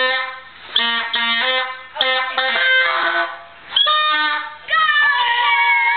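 A child playing a simple tune on a musical instrument: a series of held notes, several starting sharply, with some sliding pitches near the end.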